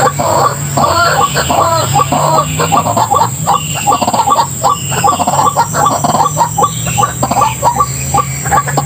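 White-breasted waterhen calling, a fast continuous run of short, harsh, repeated croaking notes, a few each second.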